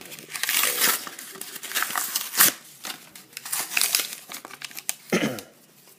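Packaging crinkling and tearing in irregular rustles as a card bonus pack is opened by hand, with a sharp crack about two and a half seconds in and a dull bump a little after five seconds.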